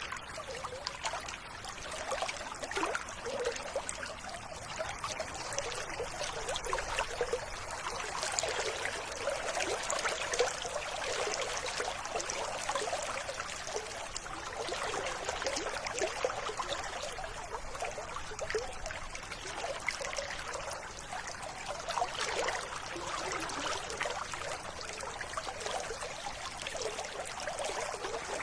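River water flowing steadily, a continuous babbling trickle.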